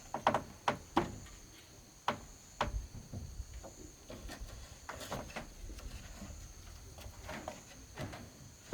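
Irregular knocks and taps of wood or bamboo being handled and worked, about nine in all, over a steady high-pitched insect drone.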